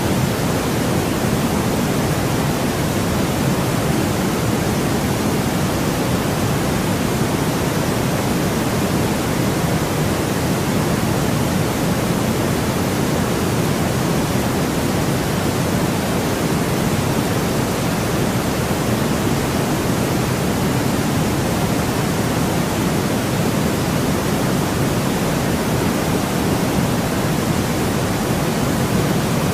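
Steady white noise: an even, unchanging hiss, somewhat fuller in the lows than the highs.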